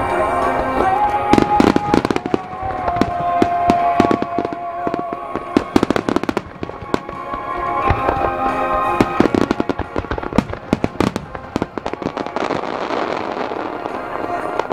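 Fireworks display: many shells bursting and crackling in quick clusters, over music with a long held melody.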